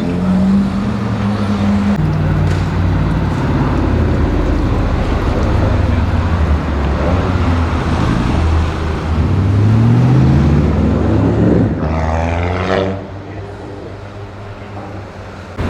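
Brabus-tuned Mercedes-Benz G-Wagon engine and exhaust accelerating in traffic, the engine note rising in pitch twice. About twelve seconds in there is a brief higher rising whine, after which the sound drops to quieter road traffic.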